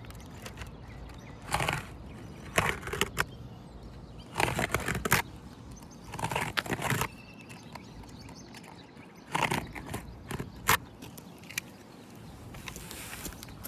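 Asphalt roof shingles being worked by hand: irregular scraping and crackling bursts with several sharp taps and clicks, as a replacement shingle is cut and slid into place.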